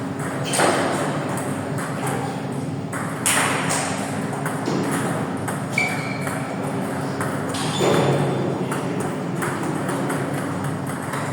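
Table tennis ball clicking against bats and the table during play, over a steady low hum.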